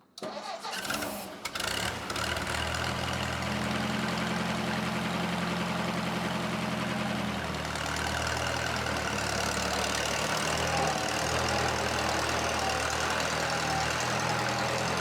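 An engine starting: it cranks and catches within about two seconds, then runs steadily at idle.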